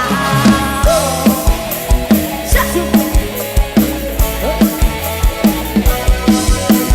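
Band music without vocals: a drum kit keeping a steady beat under sustained melody lines.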